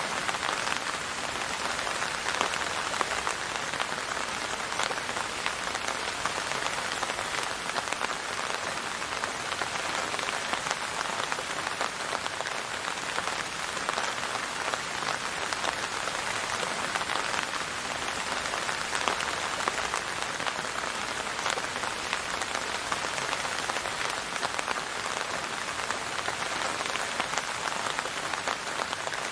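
Steady rain falling on a surface, a dense, even patter of many drops.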